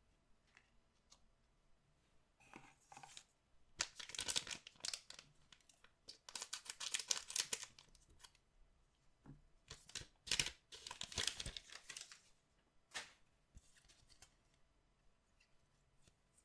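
Collectible card pack wrappers being torn open by hand, in three rough tearing runs with crinkling, followed by a single sharp click.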